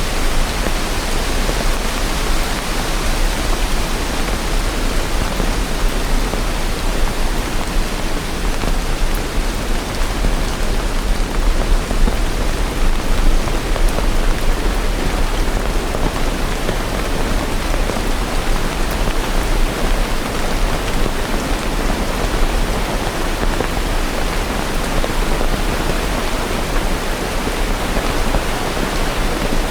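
Steady rain: an even, continuous hiss of falling water with no thunder.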